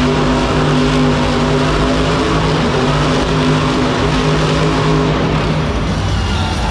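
Bone Shaker monster truck's engine running hard at steady high revs, with the pitch holding level until it drops away near the end.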